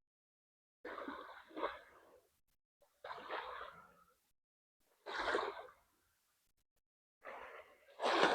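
A man's breathing close to the microphone: short, audible breaths about every two seconds while walking, with dead silence between them.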